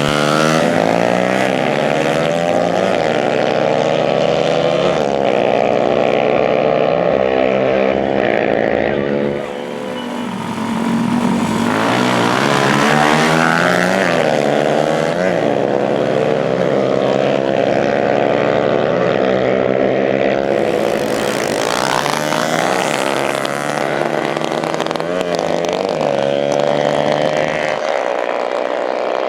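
Dirt-bike engines running hard and revving, their pitch rising and falling over and over, with a short lull about nine seconds in.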